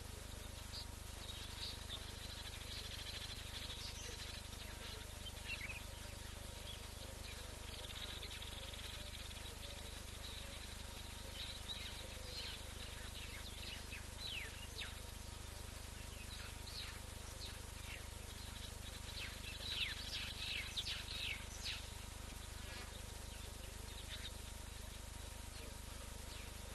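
Faint outdoor bush ambience: birds calling in short, quick, falling high notes that come in flurries about halfway through and again near the end, over a steady insect buzz and a low background hum.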